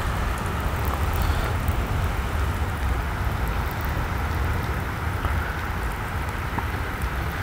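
Steady rain falling on the water, an even hiss over a low rumble.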